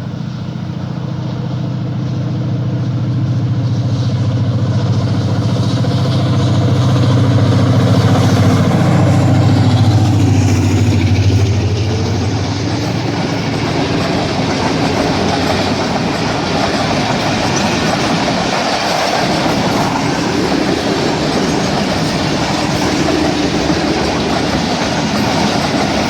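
ZCU-30 diesel-electric locomotive passing under load as it accelerates, its engine chugging louder as it approaches, then dropping in pitch as it goes by about ten seconds in. The passenger coaches follow with a steady rolling rumble and wheel clatter on the rails.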